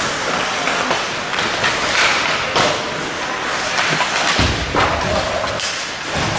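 Ice hockey play in an arena: several sharp thuds and slams of the puck, sticks and players against the boards, over a steady noise of the rink, with faint voices.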